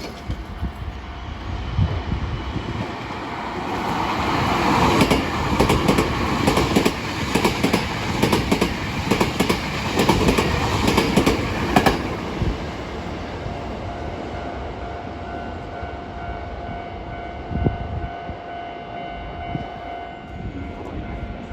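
Hankyu 9300 series electric train passing through without stopping: its noise builds, its wheels clatter rapidly over rail joints for about seven seconds, then the noise dies down.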